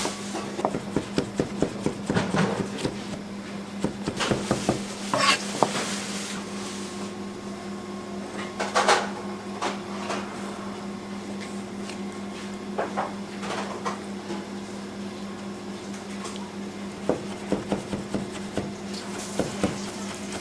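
Kitchen work: scattered clinks and knocks of dishes and utensils over a steady machine hum, with a second steady tone joining about a third of the way in.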